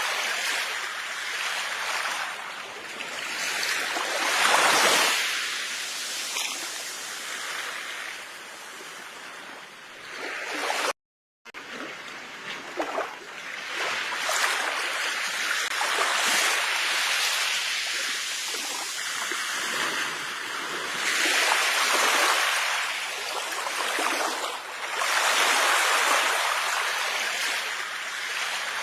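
Sea waves breaking on a shore, the wash of surf swelling and fading every few seconds. The sound drops out completely for a moment about eleven seconds in.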